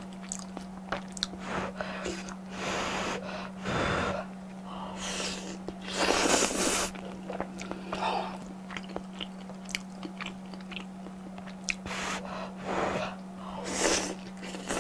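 Close-miked chewing and crunching of fried shrimp tempura, in irregular bursts, the loudest about six seconds in, over a steady low hum.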